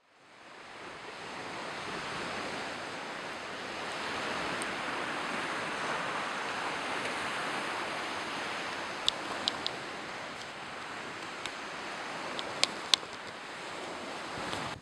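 A steady rushing noise that fades in at the start, with a few sharp clicks in the second half.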